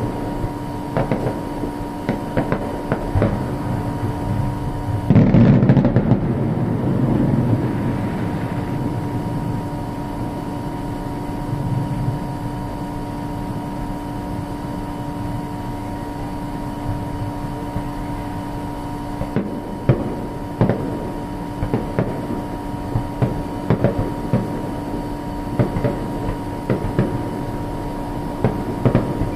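Fireworks going off: a loud boom about five seconds in with a rumble that dies away over a few seconds, and many sharp pops and crackles throughout, over a steady hum.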